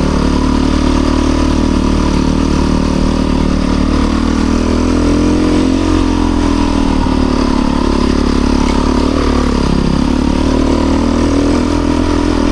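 Off-road motorcycle engine running steadily under light throttle. Its pitch slowly rises and falls as the throttle opens and closes, with a dip about two thirds of the way through.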